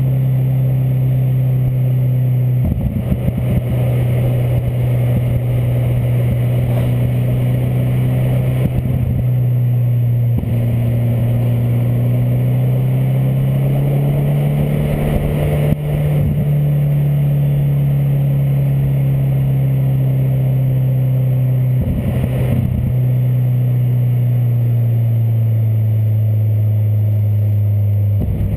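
Peugeot 205 1.9's four-cylinder engine running through an Inoxcar aftermarket stainless exhaust, holding steady revs. Its pitch climbs gently about halfway through and eases back down. A few brief thumps come through over the engine.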